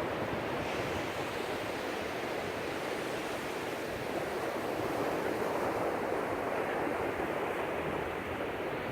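Ocean surf: waves breaking and washing onto the beach in a steady rush, swelling a little past the middle.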